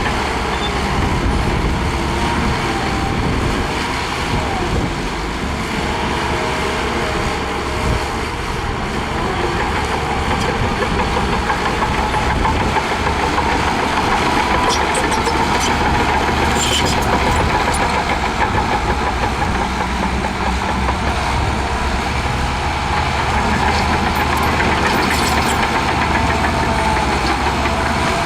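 Shantui DH17C2 bulldozer's diesel engine running steadily, with a faint steady whine over the low rumble.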